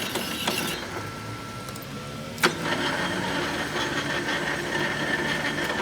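Workshop noise: an engine or machine running steadily, with one sharp knock about two and a half seconds in.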